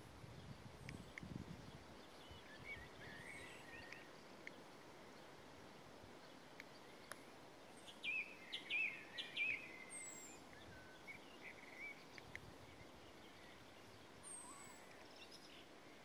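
Songbirds singing: bursts of quick chirping, warbling phrases, loudest about halfway through, with short, very high, thin falling notes now and then, over a faint steady background hiss.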